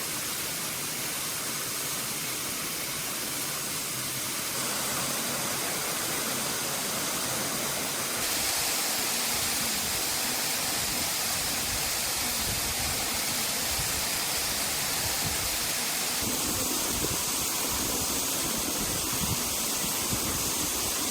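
Heavy rain falling steadily, an even hiss that gets a little louder about eight seconds in.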